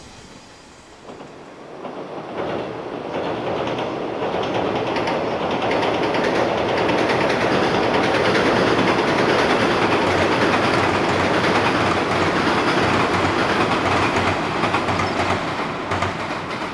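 JR West 115-series electric train crossing a steel girder bridge. Its wheels rumble over the bridge with a steady clickety-clack over the rail joints. The sound builds to a peak midway, then fades as the train moves away.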